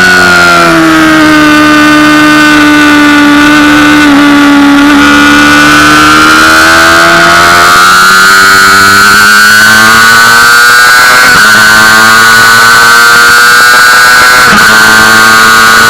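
Honda CBR600RR inline-four engine running hard at high revs, heard on board. Its pitch holds nearly steady with slow rises and falls and dips briefly near the end. It is very loud.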